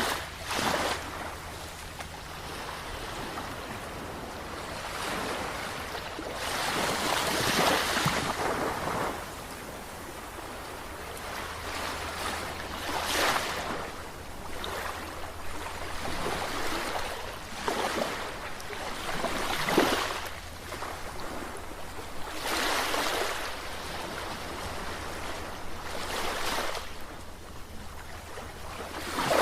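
Sea waves breaking and washing in, a rushing surge that swells and fades every few seconds.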